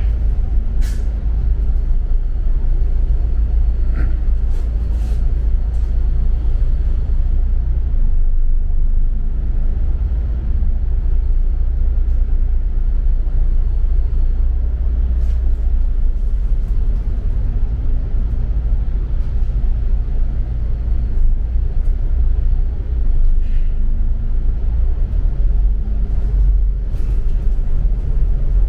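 Double-decker bus running, heard from on board: a steady low engine and road rumble, with a few short clicks and rattles scattered through it.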